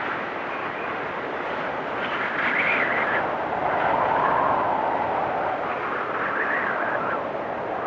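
Blizzard wind blowing in a steady rush, with gusts that whistle and waver in pitch, surging about two seconds in, again around four seconds, and near the end.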